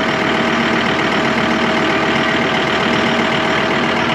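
Farm tractor engine running steadily, a constant loud drone with a steady hum.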